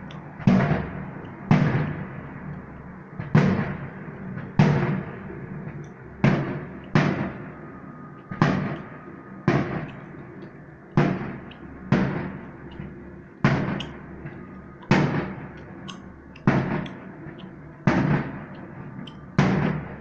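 Aerial firework shells bursting in a steady series, a sharp bang about every second and a half, each followed by a rolling tail that dies away.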